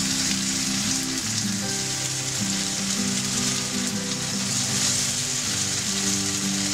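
Tofu hamburger patties sizzling steadily as they fry in a little sesame oil in a frying pan, over background music.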